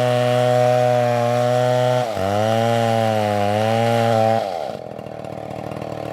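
Chainsaw running at full throttle and cutting into a tree. About two seconds in its pitch sags and wavers under the load of the cut. A little after four seconds in it drops off to a lower, quieter idle.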